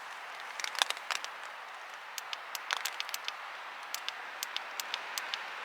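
Steady rain hiss with irregular sharp taps of single drops landing close by, several a second.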